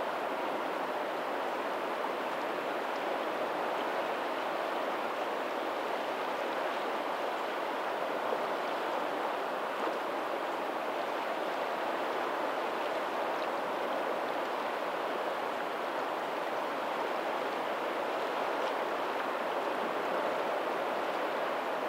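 Steady rush of water where a lagoon's tidal outflow meets the sea, with faint ocean surf behind it; an even, unbroken wash with no distinct wave breaks.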